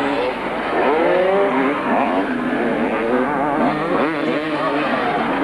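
Several motocross motorcycle engines revving hard at once, their pitch rising and falling through gear changes as the bikes race on the track.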